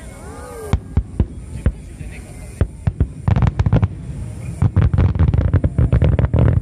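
Aerial fireworks exploding. A few separate booms come in the first three seconds, then a rapid barrage of many bursts in quick succession from about three seconds in.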